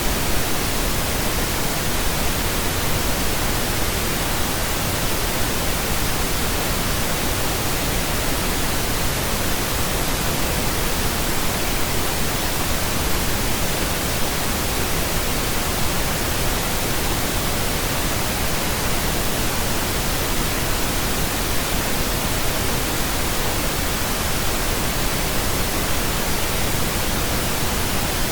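Steady, unchanging pink noise: an even, continuous hiss spread across the whole range from low to high, with no tones or rhythm in it.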